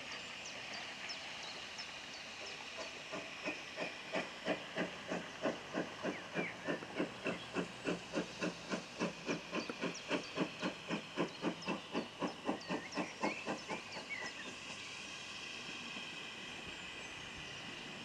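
GWR 2884 Class 2-8-0 steam locomotive 3850 working under steam, its chimney exhaust beating evenly about three times a second over a steady hiss of steam. The beats stop about fourteen seconds in and the hiss carries on.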